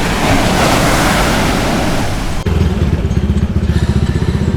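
Surf and wind noise, which cuts off abruptly about two and a half seconds in. A motorcycle engine then runs with a low, rhythmic putter.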